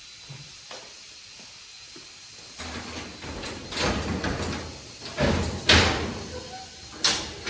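A run of loud knocks and bangs starting about two and a half seconds in, the sharpest near the middle and near the end, over a low hum.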